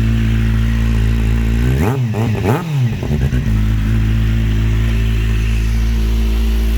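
Kawasaki Z750 inline-four idling through an aftermarket Delkevic exhaust, blipped twice in quick succession about two seconds in, each rev rising and falling back before it settles to a steady idle.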